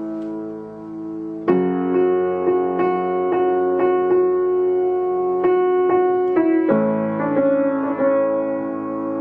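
Slow, gentle keyboard music in a piano sound: held chords with single notes struck one at a time over them, the harmony shifting about a second and a half in and again near seven seconds.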